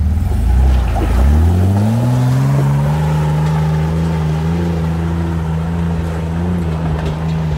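Off-road vehicle's engine revving up hard about a second in, then held at high revs.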